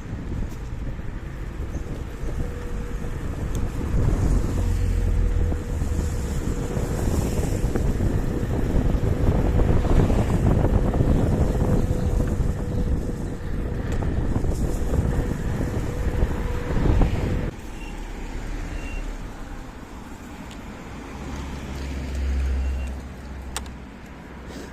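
KuKirin G2 electric scooter ridden at speed: wind buffeting the microphone over tyre and road noise, with a thin steady whine. About seventeen seconds in, the whine stops and the noise drops suddenly, as if the scooter slows.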